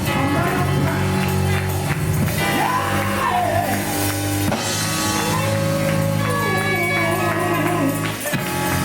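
Gospel music: a voice singing long, bending, melismatic notes over held low chords.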